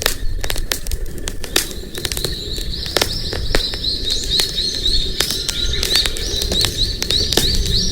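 Wood campfire crackling and popping with many sharp snaps, over a low steady rumble. About three seconds in, a bird joins with quick, repeated high chirps, about three a second.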